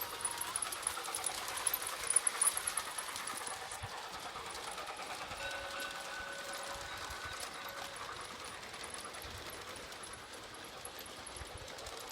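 Garden-scale model train running along outdoor track, its wheels making a steady fine clicking clatter over the rails that is loudest about two seconds in. A held tone at two pitches at once sounds for about two seconds around the middle.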